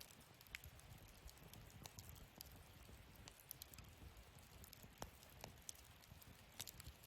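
Wood fire in a fire-pit stand crackling faintly: scattered sharp pops and snaps, a few louder ones about five seconds in and near the end, over a soft low rumble.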